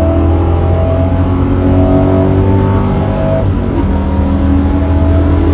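2002 Pontiac Trans Am WS6's 5.7-litre LS1 V8 at full throttle in a hard acceleration run past 60 mph, the engine note slowly climbing, with a short dip about three and a half seconds in.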